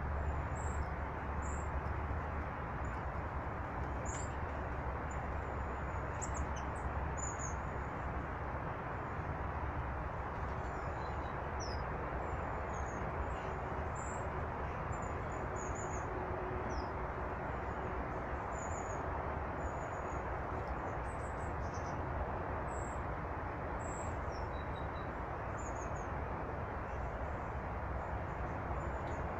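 Small birds giving many short, high chirps scattered throughout, over a steady rushing background noise with a low rumble.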